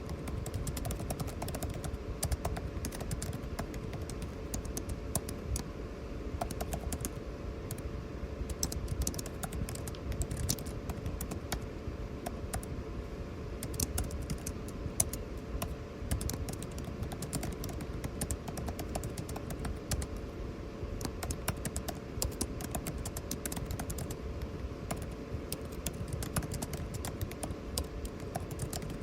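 Typing on a computer keyboard, irregular key clicks throughout, over the steady hum of air conditioning.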